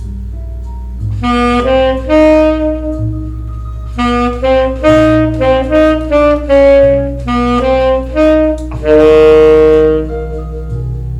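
Jazz saxophone playing a slow melody in short phrases, ending on a long held note, over a steady low accompaniment.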